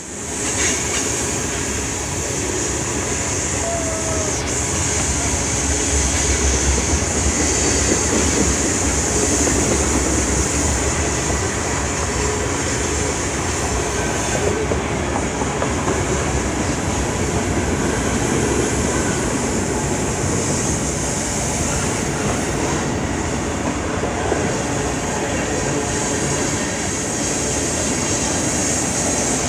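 Freight train rolling past at speed: a steady, loud rumble and rattle of cars and wheels on the rails, with some clickety-clack over the rail joints.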